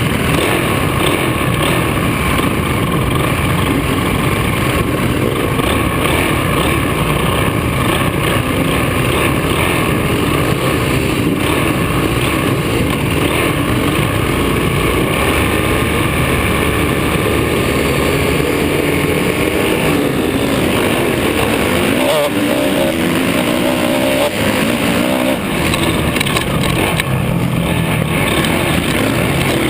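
Motocross dirt bike engine running hard, close and loud, its pitch rising and falling as the throttle is worked.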